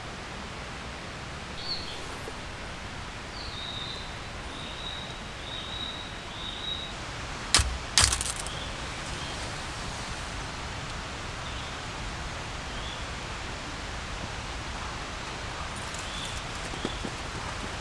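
Steady rain falling in a forest, with short high bird chirps in the first half and two sharp knocks about half a second apart near the middle.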